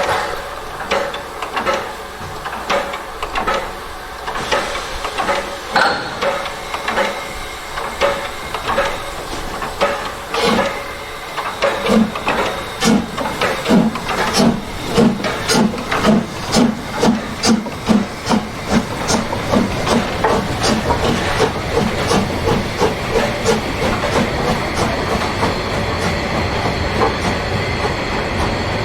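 Narrow-gauge steam locomotive pulling away: its exhaust chuffs come about once a second at first, quicken to several a second, and blend into a steady rush near the end.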